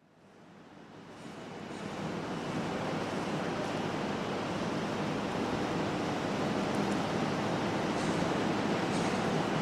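A wash of noise in an ambient electronic live set fades in from silence over about three seconds, then holds steady, with a few faint ticks near the end.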